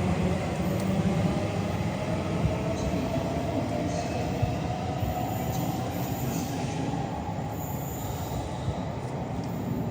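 A train running through the station without stopping, its wheels rumbling on the rails. The noise is loudest at first and slowly fades as it passes.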